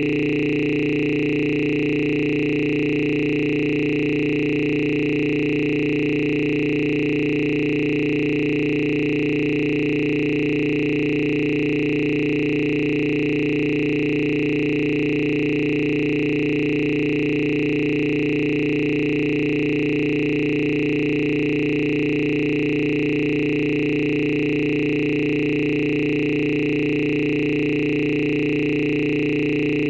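A steady electronic drone of several held tones, low and high, that does not change or pause.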